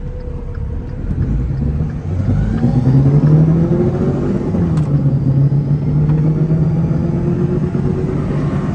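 Car accelerating: the engine note climbs for a couple of seconds, drops back about halfway through as it shifts up, then holds steady, with a high whine riding on it that sounds like a supercharger. The driver fears the whine means the transmission is going out.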